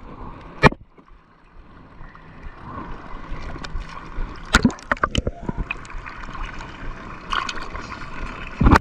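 Sea water sloshing and gurgling, with a few sharp clicks or knocks and a louder burst near the end.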